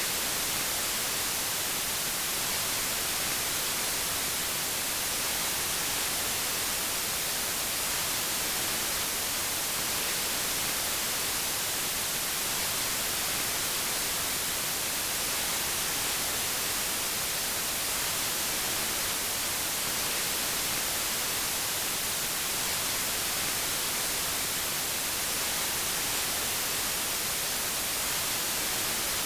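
Steady white noise: an even hiss, strongest in the high frequencies, unchanging throughout.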